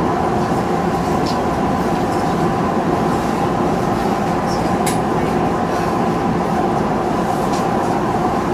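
Tokyu Toyoko Line express train running through a tunnel, heard from the cab: a steady rumble of wheels on rail with a constant hum, and a few brief sharp ticks.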